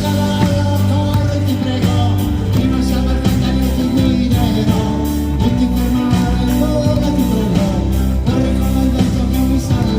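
Live rock band playing with guitar over a steady beat.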